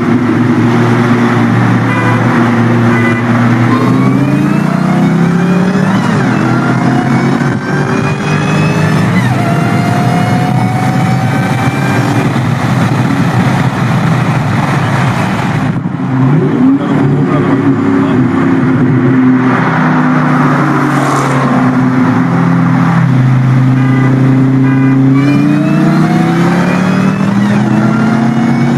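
Supercharged 4.6-litre V8 of a 2003–04 SVT Mustang Cobra accelerating hard through the gears, its pitch climbing and dropping back at each gear change, with a high supercharger whine rising along with the revs. A short break comes about halfway, then a second hard pull.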